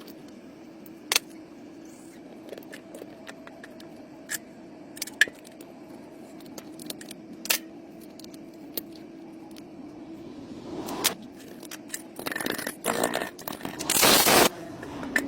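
Metal hand tools clinking and scraping on engine parts: scattered sharp clicks every second or so over a steady hum, turning into louder, rougher scraping in the last few seconds.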